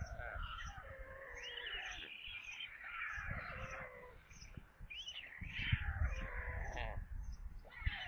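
Birds calling: short high chirps repeated at an even pace, mixed with rising and falling calls, over a low rumble. Sharp knocks come about two-thirds of the way in and again near the end.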